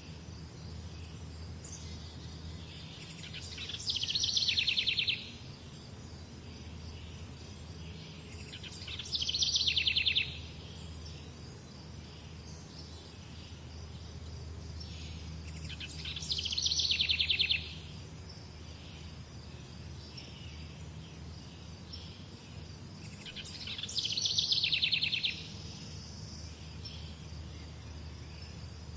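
A songbird repeats the same song four times, about every seven seconds. Each song is a fast trill of about a second and a half that swells and then stops short. A steady low background rumble runs underneath.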